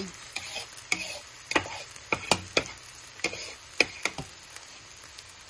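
Egg-battered potato fritters frying in hot oil, a steady sizzle, with a string of sharp clicks and taps over the first four seconds.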